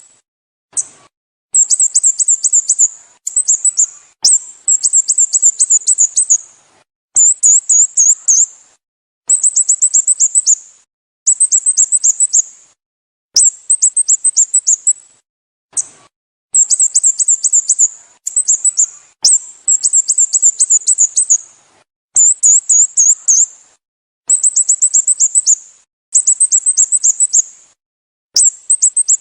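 A small bird's high-pitched call given over and over. Each burst is a quick run of short descending chirps lasting one to two seconds, with dead silence between bursts, about fifteen bursts in all.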